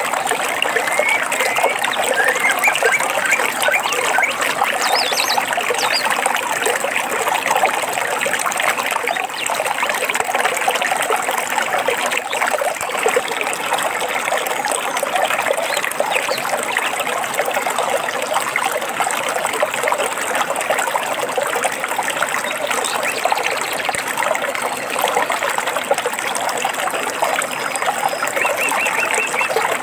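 Small stream trickling and babbling steadily, with a few faint bird chirps over the water now and then.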